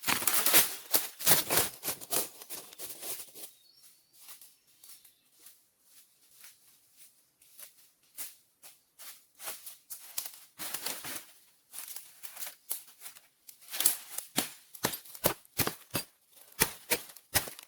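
Short rustling and crackling noises in quick runs, busiest in the first three seconds and again near the end, with scattered single crackles in between.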